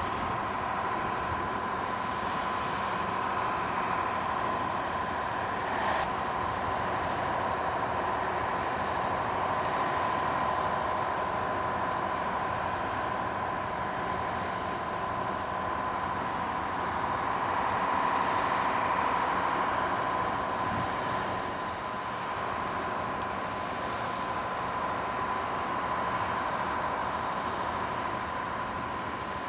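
Steady railway noise with a constant hum: passenger coaches rolling past on the track, then a diesel locomotive running among the tracks.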